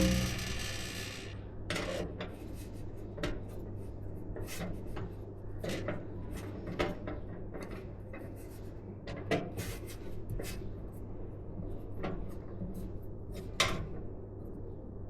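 Hands handling computer parts during a PC build: a sharp clack with a brief rattle right at the start, then scattered small clicks, taps and rustling, with another sharp click near the end.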